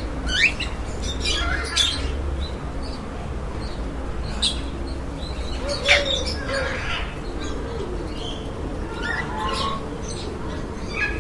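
Caged market birds chirping and squawking: short, sharp calls that dart up and down in pitch come every second or two, over a steady low rumble.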